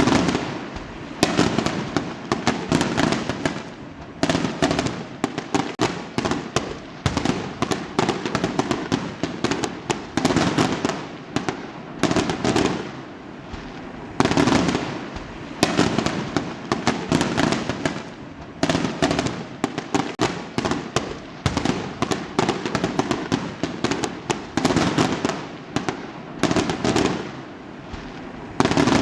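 Fireworks exploding in rapid volleys: many sharp bangs and crackles in quick succession, overlapping, with a fresh loud burst every second or two.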